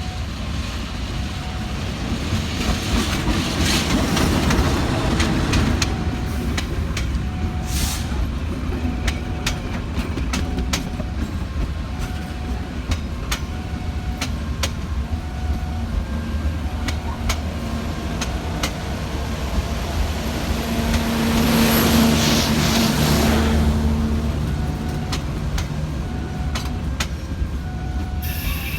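Train running through the station, its wheels clacking over rail joints in many sharp clicks, with a low drone that swells louder about three quarters of the way through. A short tone repeats every second or two.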